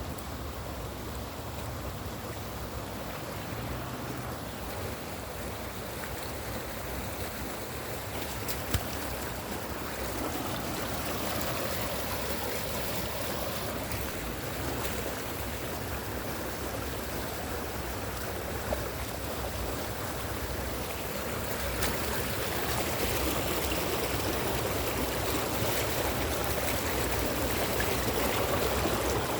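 Running water of a stream, a steady rushing that grows louder about a third of the way in and again later on, with a couple of brief knocks.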